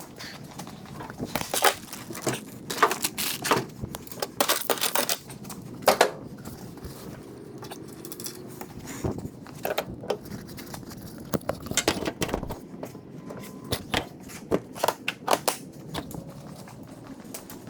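Irregular clicks, knocks and short scrapes of hands and tools working at a boat's batteries and their fittings.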